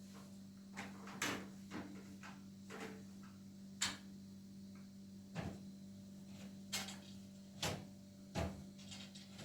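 Irregular knocks and clatters, about a dozen of them, like objects being handled and set down, over a steady low hum.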